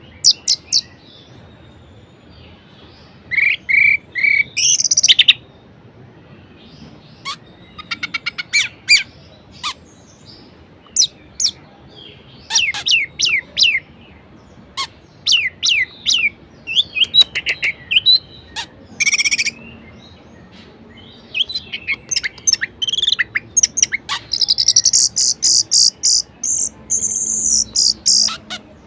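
Orange-headed thrush (anis merah) singing a varied song: separate bursts of quick, high whistled and chattering phrases with short pauses between them, and a longer run of fast high notes near the end.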